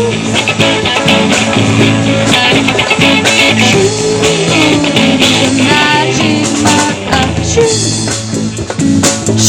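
Live band playing, with drums keeping a steady beat under sliding pitched lines from guitar or voice.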